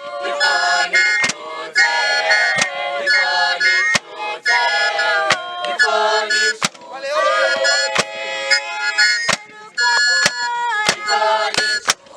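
A group singing a traditional dance song, with sharp percussive hits landing at an irregular pace throughout.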